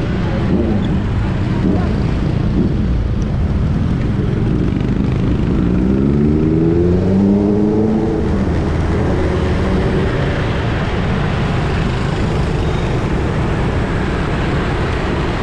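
Steady street traffic noise. About five seconds in, one vehicle engine accelerates nearby, rising in pitch for a few seconds, and fades back into the traffic around eight seconds in.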